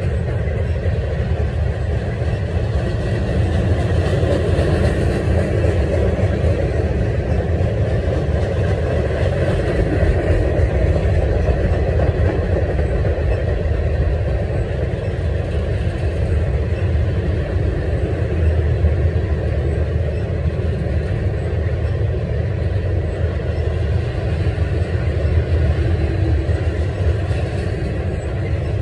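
Canadian National freight train's gondola and tank cars rolling past: a steady rumble of steel wheels on the rails.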